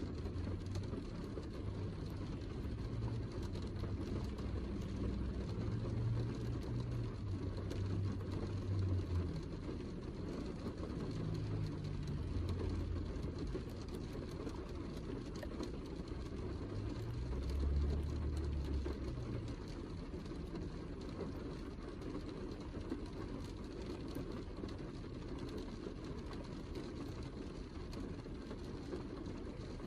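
Steady heavy rain, a dense even hiss, under a low rumble that swells and fades a few times.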